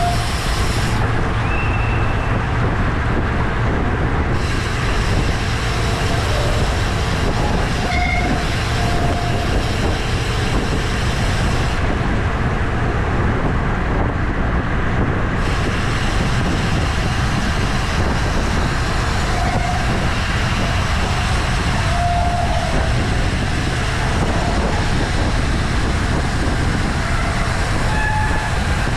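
Steady rushing wind and road rumble on a ride-along camera on a racing bicycle rolling in the pack, with a few brief high squeaks scattered through it.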